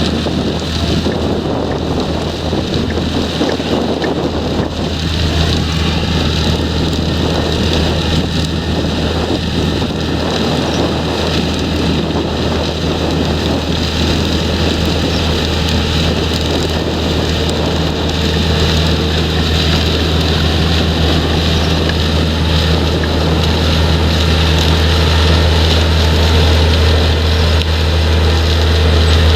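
Heavy diesel engines of potato-harvesting machinery running steadily with a deep hum, with wind buffeting the microphone. The drone grows a little louder near the end.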